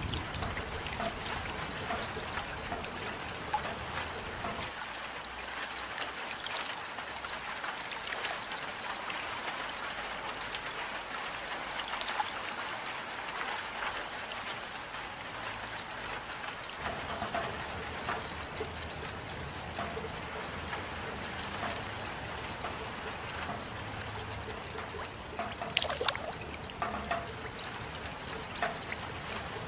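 Steady rain falling, with running water trickling and many small drop hits ticking, a few sharper ones near the end.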